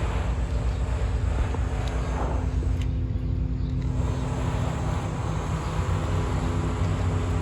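A steady low mechanical hum, like an engine running at a constant speed, with an even background rumble.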